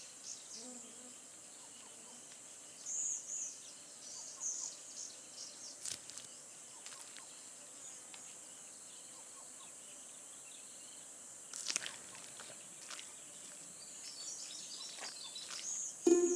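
Forest ambience of insects: a steady high-pitched drone with scattered short chirps and a few soft clicks, the clearest clicks about six and twelve seconds in.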